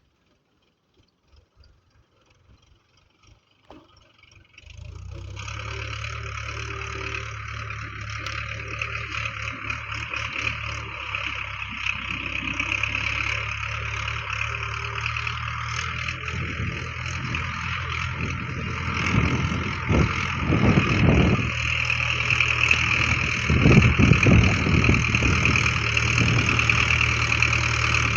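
A tractor's diesel engine starts about five seconds in and runs steadily, growing louder in the second half with a few brief surges; a few faint clicks come before it.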